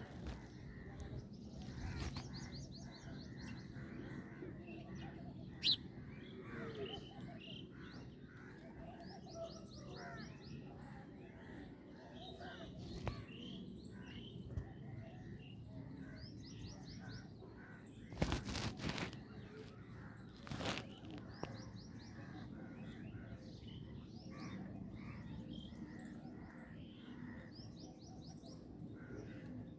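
Birds chirping, with one bird repeating a short high trill every three to four seconds over a low background hum. A few sharp knocks cut in, the loudest about 18 seconds in and another near 21 seconds.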